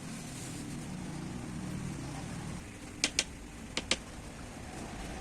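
A low hum for about the first half, then four sharp clicks in two quick pairs, each pair about a sixth of a second apart.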